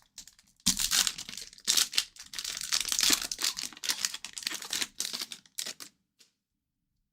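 Wrapper of a 2023-24 O-Pee-Chee hockey card pack being torn open and crinkled by hand: a run of crackling rustles that stops about six seconds in.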